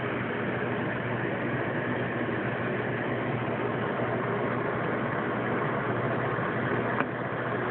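Microwave oven running with a steady hum, with a single short click near the end.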